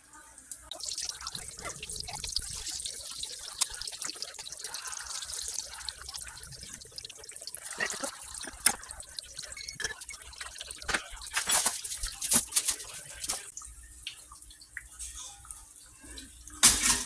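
Water running and splashing into a kitchen sink, with scattered clinks and knocks of items being handled; a loud knock near the end.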